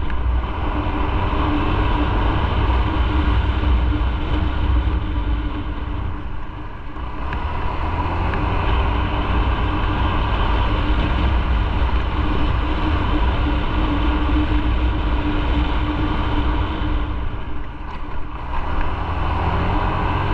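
Motorcycle engine running while riding, with a strong low rush of wind. The engine note eases off briefly twice, about six seconds in and again near the end.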